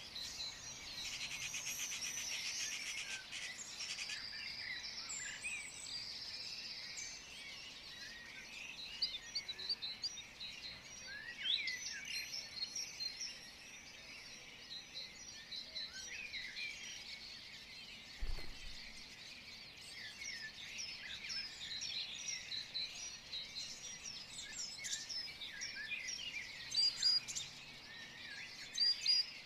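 Many small birds chirping and trilling together, a dense chorus of short, high chirps.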